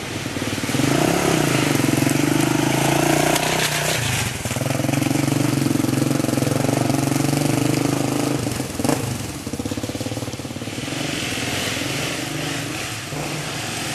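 Dirt bike engine revving hard under load, held high for a few seconds twice with a short drop between, then running lower.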